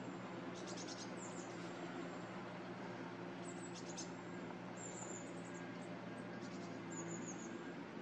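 Small birds giving short, very high-pitched chirps in several brief clusters, over a steady low hum and faint hiss.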